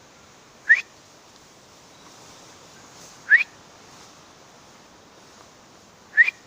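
A person whistling three short, rising calls, spaced about three seconds apart, to call birds.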